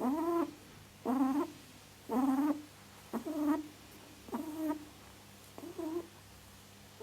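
An animal's short pitched calls, six in a row about a second apart, each under half a second long.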